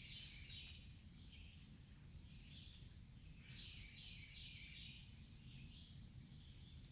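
Faint forest ambience: a steady high insect trill throughout, with a bird singing a short phrase of quick repeated chirps at the start and again about three and a half seconds in.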